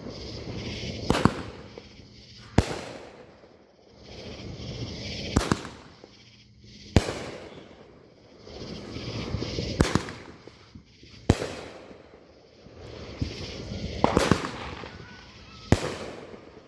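Fireworks going off: a string of about eight sharp bangs, roughly one every one and a half seconds, with a crackling hiss swelling up between them.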